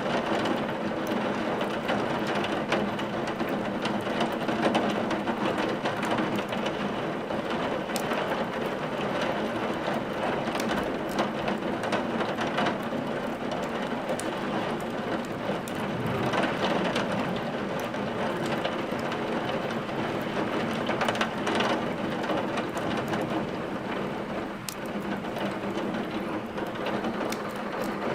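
Steady rain, with the crackle of burning firewood in a fireplace heard as scattered small clicks.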